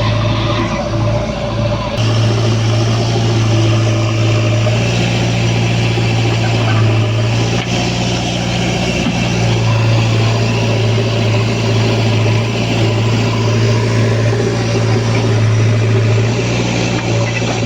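Diesel engine of heavy earth-moving machinery running steadily, a deep, even hum that holds throughout.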